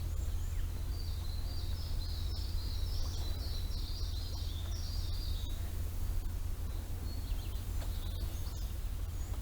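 A songbird singing a fast run of short high chirps for about five seconds, with a few fainter chirps near the end, over a steady low rumble.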